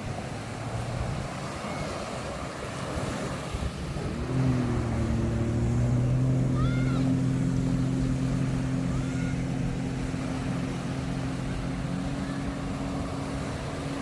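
An engine starts up about four seconds in and then runs steadily at one pitch over the wash of surf.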